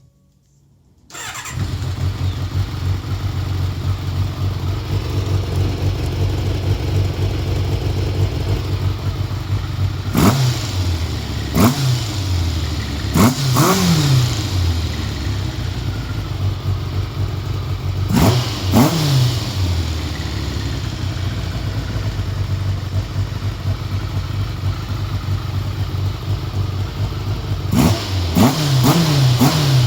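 Kawasaki ZZR600 inline-four motorcycle engine, freshly fitted with rebuilt and hand-balanced carburettors, idling steadily, with several quick throttle blips that rise and fall in pitch, the last few in a short cluster near the end. The engine sound comes in suddenly about a second in.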